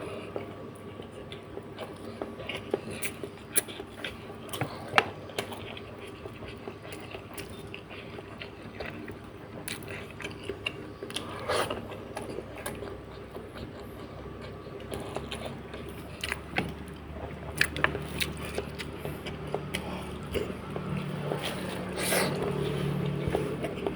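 Close-miked eating sounds: wet chewing, lip smacks and sucking as soft braised catfish head is eaten, with scattered clicks and scrapes of bones or utensils.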